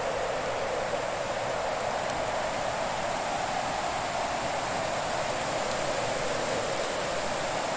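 A fire burning in a fireplace: a steady rushing hiss with a few faint, sparse crackles.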